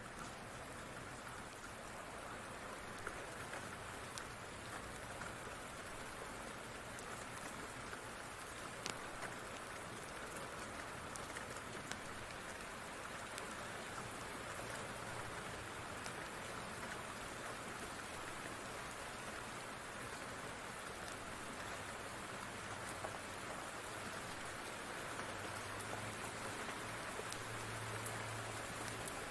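Steady rain falling, with scattered sharp ticks of drops or crackles. A low rumble swells near the end.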